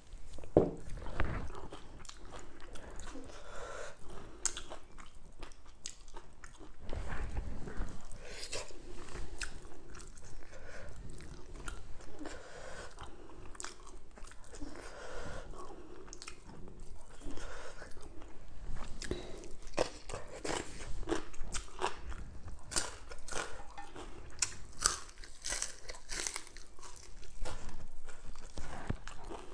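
Close-miked eating: chewing and crunching of fresh lettuce and fried fish, with many short crisp mouth clicks, more of them in the second half.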